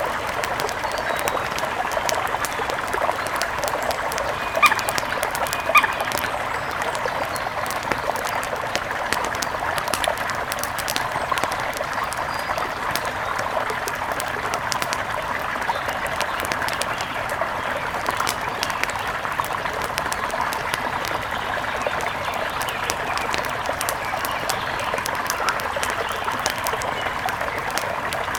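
Steady rushing of a mountain river with a light continual crackle, and two short bird calls about five seconds in.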